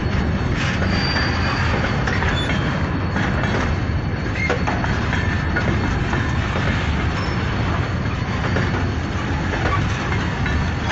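Freight train wagons rolling along the track, a steady rumble with wheels clattering on the rails and a few brief, faint wheel squeals.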